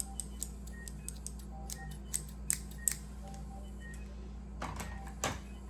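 Metal surgical scissors clicking and tapping as they are handled, in a string of sharp irregular clicks with a rustling of handling about three-quarters of the way through. A faint short beep repeats about once a second behind them, part of a hospital anesthesia ambience.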